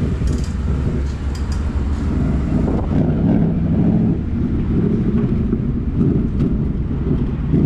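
Ford Mustang V8 with its mufflers removed, running with a loud, steady low exhaust rumble.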